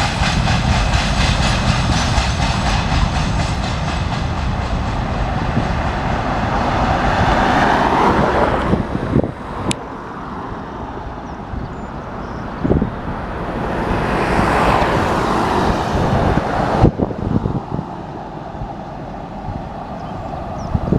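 Wagons of a mixed freight train rolling past on the rails, loud for about the first eight seconds, then dropping away, with a brief swell again before it cuts off near the end.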